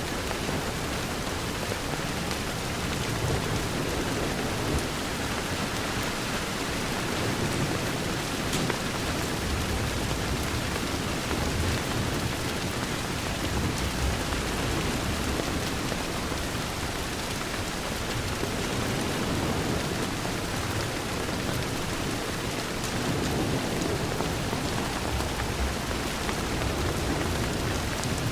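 Steady rain on a window pane, an even hiss, with a low rumble that swells and fades a couple of times.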